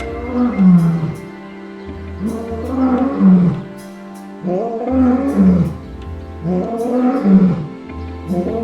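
Lion roaring, four loud roars each falling in pitch, about two seconds apart, over background music.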